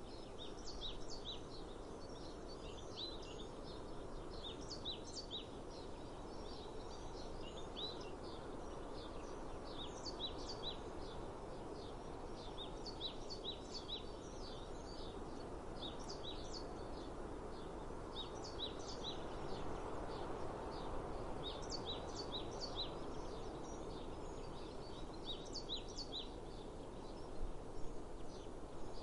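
Small birds chirping, short high notes repeated in quick clusters throughout, over a steady outdoor background noise.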